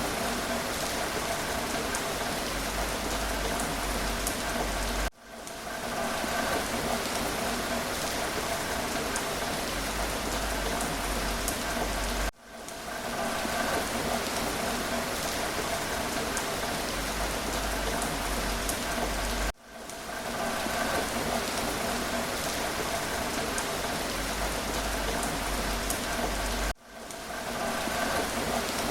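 Steady rain falling, an even hiss of drops. It cuts out sharply and fades back in about every seven seconds, four times in all: the sign of a short recording looped over and over.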